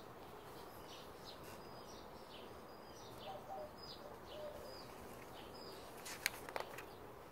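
Faint birds chirping outdoors, a string of short high calls repeated throughout. About six seconds in, a brief rustle as a book page is turned.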